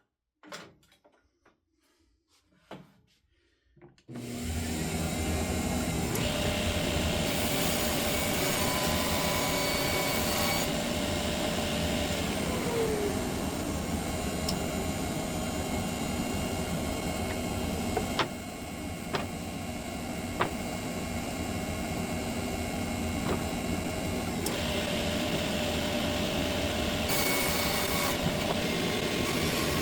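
After a few light knocks, a shop vacuum and a 1950s Craftsman table saw start about four seconds in and run steadily, the dust collection drawing air while wood is sawn. The sound brightens in a couple of stretches, and a few sharp ticks come near the middle.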